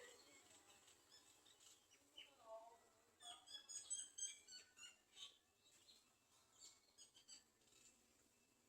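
Faint, high chirps of small birds, with a quick run of them about three to four and a half seconds in, over a faint steady high hiss.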